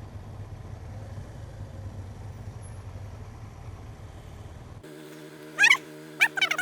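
Motorcycle engine and road rumble while riding in traffic. At about 4.8 s this cuts off suddenly and gives way to a steady hum with short, sharp warbling calls.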